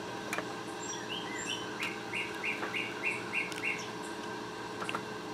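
A bird singing: a few high chirps, then a quick run of about six repeated notes, about three a second, over a steady background hum.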